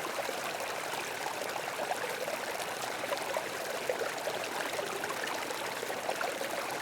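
Small stream trickling and babbling steadily, water running over stones.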